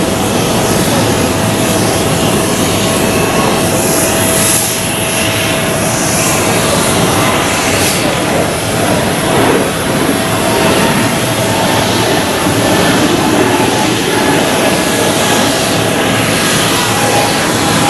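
Airbus A220-300's Pratt & Whitney geared turbofan engines running as the jet moves along the runway: a steady loud rush of jet noise with a held tone.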